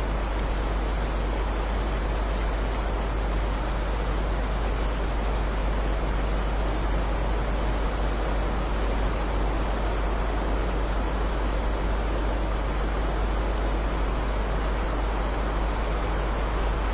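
Steady heavy rain: a dense, even hiss with no separate drops standing out, over a deep low rumble.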